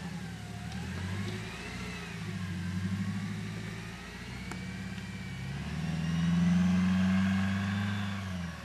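Off-road 4x4's engine revving up and down as it crawls through brush, its note swelling to its loudest about two-thirds of the way through, then dropping away near the end.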